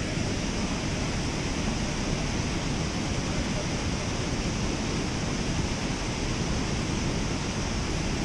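Steady rushing of water pouring through a dam spillway, an even noise with no breaks.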